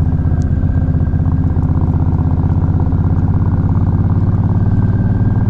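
Suzuki Intruder Volusia 800's V-twin engine running steadily at low revs.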